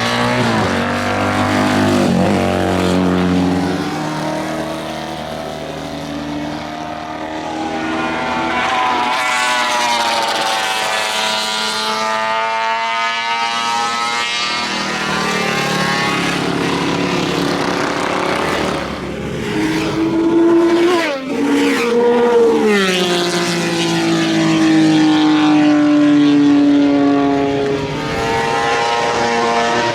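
Racing motorcycles passing on the circuit at speed, their engine notes rising and falling as they come by and go away, with quick gear changes just past the middle.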